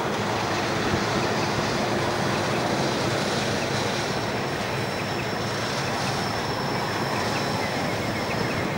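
Grain hopper wagons rolling slowly past up a grade: a steady rumble of steel wheels on rail. A thin, high wheel squeal sets in about halfway through.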